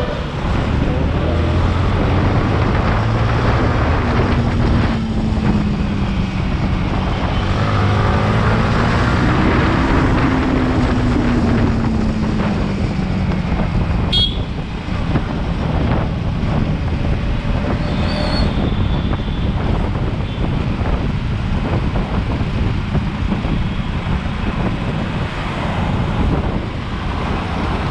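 Yamaha MT-15's 155 cc single-cylinder engine running on the move under a heavy rush of wind and road noise. Its pitch rises and falls with the throttle between about 4 and 12 seconds in. A short high horn toot comes about halfway through.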